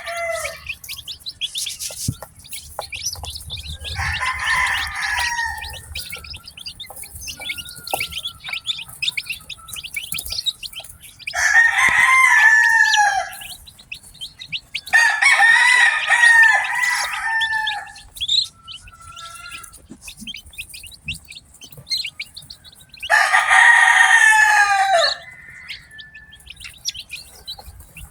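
Newly hatched chicks peeping continuously in short high chirps, while a rooster crows four times, each crow about two seconds long and dropping in pitch at the end. The crows are the loudest sounds.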